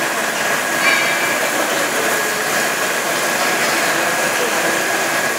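Brushless automatic car wash running: a loud, steady rush of water spray and machine noise.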